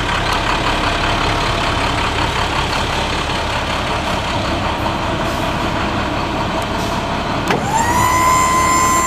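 Diesel engine of a 2013 International 4300 truck running steadily. Near the end a steady high-pitched tone with overtones starts, sliding up quickly and then holding.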